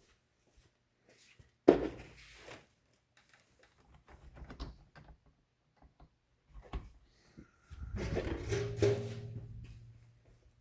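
Handling knocks and clatter: one sharp knock a couple of seconds in, scattered clicks, then a longer rattling, rustling stretch near the end over a steady low hum.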